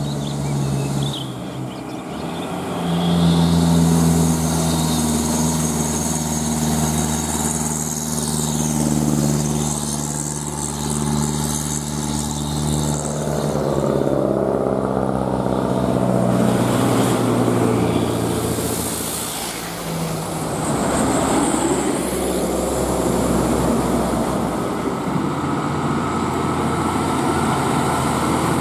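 Heavily loaded truck's engine labouring steadily up a climb, with its pitch shifting about halfway through.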